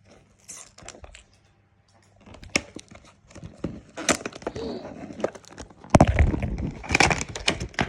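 Packaging of a toy box being torn and pulled open, a run of crackles and sharp clicks that becomes a dense, loud stretch of crackling near the end.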